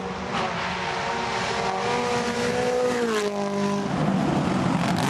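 Rally car engine held at high revs, then its pitch drops quickly about three seconds in as the driver comes off the throttle. A rougher, noisier stretch of engine and tyre sound follows near the end.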